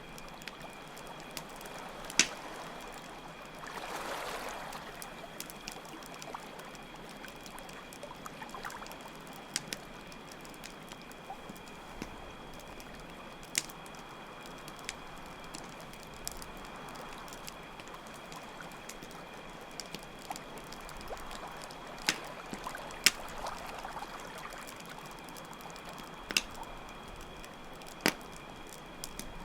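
Layered night ambience: a steady trickle of water under a constant high cricket trill, with a campfire's crackle breaking through as a handful of sharp pops. A soft swell of rushing water rises and fades about four seconds in.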